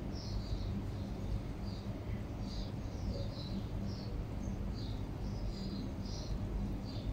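Small birds chirping: short, high calls coming irregularly, about one or two a second, over a steady low rumble.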